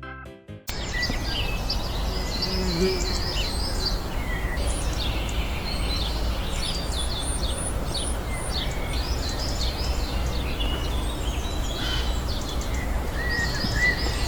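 Many small birds chirping and twittering over a steady low rumble; a music track cuts off just before, under a second in.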